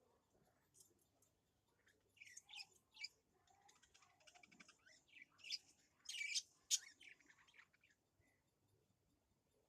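Small birds chirping in short, scattered calls, with the loudest run of chirps about six to seven seconds in.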